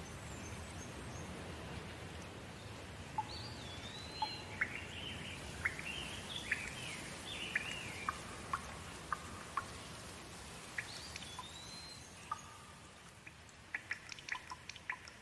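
Steady rain with a bird calling over it, a string of rising and falling chirps and whistles through the middle. Near the end the rain eases and single drops start ticking sharply.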